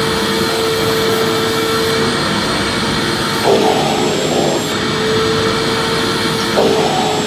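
Vacuum cleaner running steadily: a continuous rushing noise with a mid-pitched whine that drops out and comes back, and two short surges, one about halfway through and one near the end.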